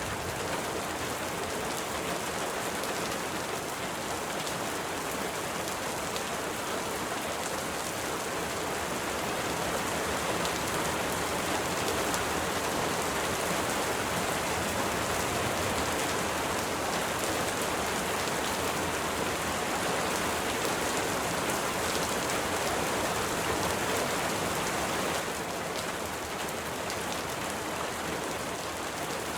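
Steady rain falling, a dense even hiss of drops that swells a little through the middle and eases slightly about 25 seconds in.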